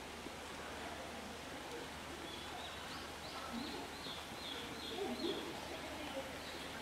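A small bird singing a run of short, repeated high notes, about two a second, over a steady outdoor background hum.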